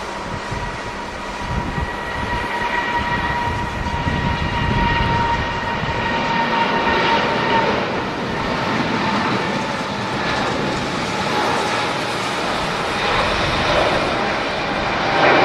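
Jet airliner engines: a steady rushing roar with a high whine that sinks slightly in pitch over the first half, and other whining tones coming in near the end.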